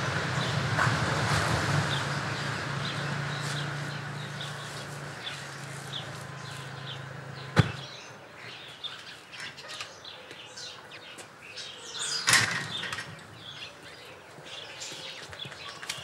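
Small birds chirping in a garden, many short high calls. For the first half a steady low hum runs under them and stops abruptly with a click, and a single louder thump comes about three-quarters of the way through.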